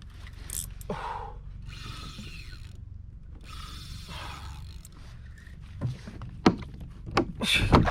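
Fishing reel being cranked in two stretches of about a second each, the retrieve of a large ono (wahoo) under load. A steady low rumble runs underneath, and several sharp knocks come near the end.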